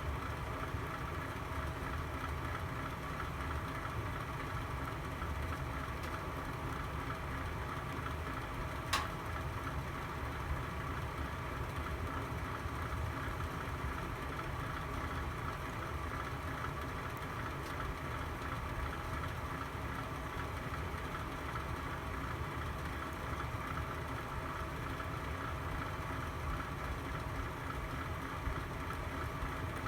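Fireplace fire burning with a steady low rumble and hum, with one sharp crackle about nine seconds in and a couple of fainter pops after it.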